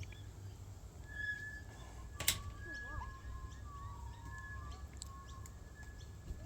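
Birds calling with thin whistles and chirps, and one sharp click about two seconds in.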